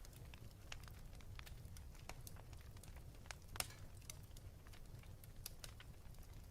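Wood fire in a fireplace crackling faintly, with sharp pops scattered irregularly over a low steady rumble. The loudest pop comes about three and a half seconds in.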